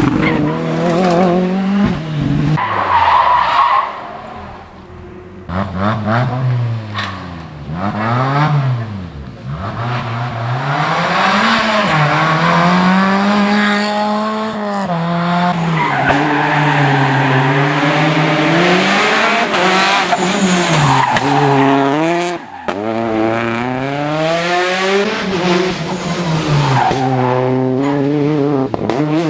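Rally cars at full effort on a special stage, several in turn, with engines revving up and dropping sharply again and again through gear changes and braking. Tyre squeal runs under the engine sound.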